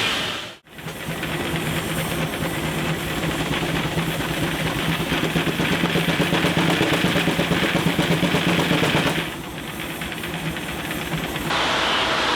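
Steam engine running with hissing steam and a steady low hum under a fast, even pulsing. The sound changes abruptly twice near the end.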